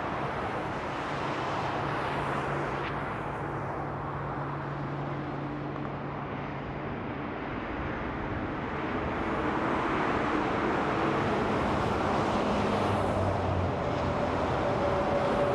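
Steady freeway traffic: tyre and engine noise from a stream of cars and trucks, with a low engine hum through the first half. It grows louder in the second half as heavier vehicles pass, bringing a few higher engine or tyre tones near the end.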